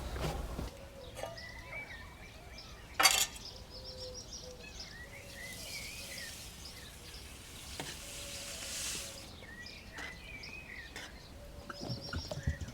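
Small birds chirping and singing on and off, with one sharp knock about three seconds in and a soft rushing hiss for a few seconds in the middle.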